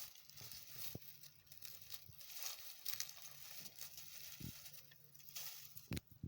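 Rustling and scratching with a few sharp knocks: a cat scrabbling about while stuck.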